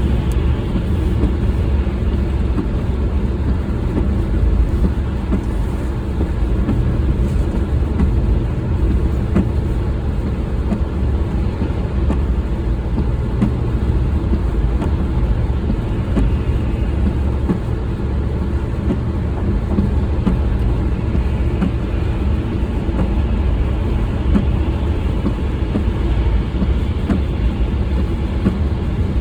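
Steady low rumble of a vehicle in motion, running evenly throughout.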